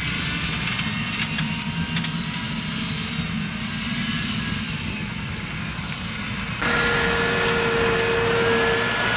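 Tractor engine running steadily with some light ticking. About two-thirds of the way through it cuts abruptly to a louder engine sound carrying a steady whine.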